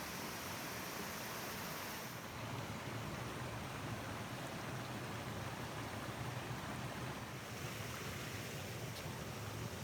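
Steady wind, with gusts buffeting the microphone as a low rumble from about two seconds in.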